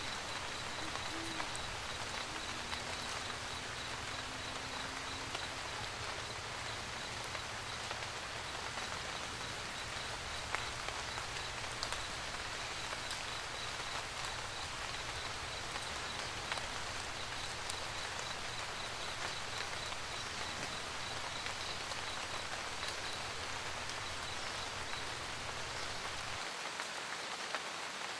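Steady rain pattering on a roof, with scattered sharper drop ticks. A low rumble underneath cuts off abruptly near the end.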